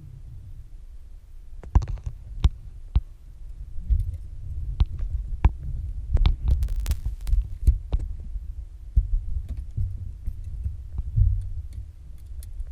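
Low, uneven rumble with a scatter of sharp clicks and knocks, the first about two seconds in and the busiest stretch around six to seven seconds.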